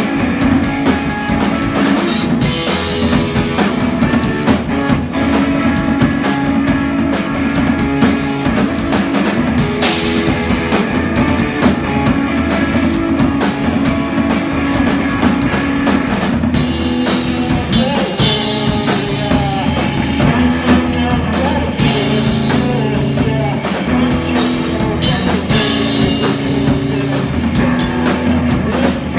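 A rock band playing live: drum kit, guitars and some singing, loud and steady.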